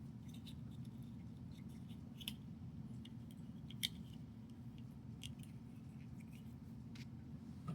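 Small plastic building bricks being handled and pressed together: scattered light clicks, the sharpest about four seconds in, over a low steady hum.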